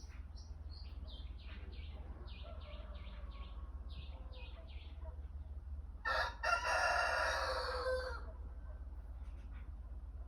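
A small songbird chirps a quick run of short, high notes, then a rooster crows once, loudly, about six seconds in, the crow lasting around two seconds.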